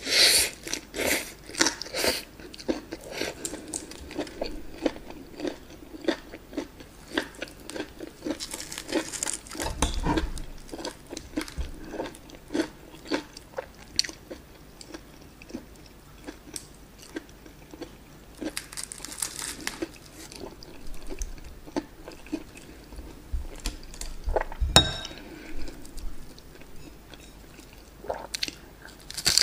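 Close-up crunchy bites and chewing of breaded, deep-fried chicken drumsticks: crisp crackling crunches, with louder bites at the start, about a third of the way in and about two-thirds in. One sharp click near the end.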